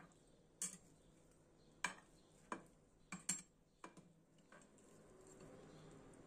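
Metal spatula clinking and scraping against a glass baking dish, about seven light taps over the first few seconds, as a square of baked pie is pried loose and lifted out.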